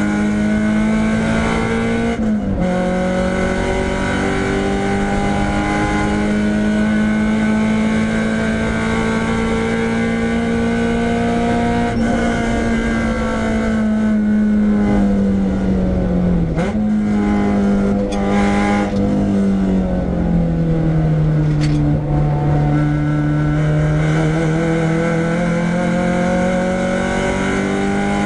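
Renault Clio 172's 2.0-litre four-cylinder engine running hard at high revs, heard on board the stripped-out car. The pitch drops sharply about two seconds in and again a little past halfway, sags as the car slows around twenty seconds in, and climbs again near the end.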